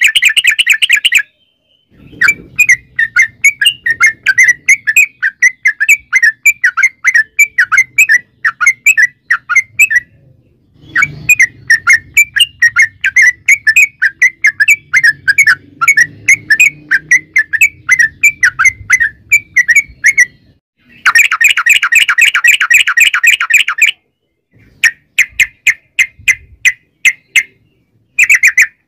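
Yellow-vented bulbul singing a long rapid run of chattering notes, repeated several times a second, in stretches broken by short pauses, with a denser buzzing trill for about three seconds past the twenty-second mark.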